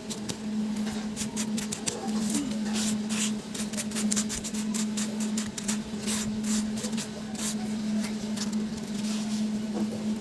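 A machine's steady hum at one pitch, with many irregular short clicks and hisses over it.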